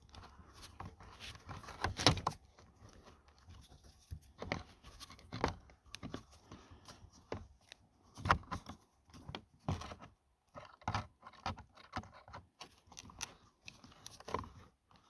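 Pliers twisting together the ends of a piece of 14-gauge galvanized steel wire threaded through drilled holes to stitch a crack in a plastic motocross panel: irregular small metallic clicks and scrapes as the twist is worked tight.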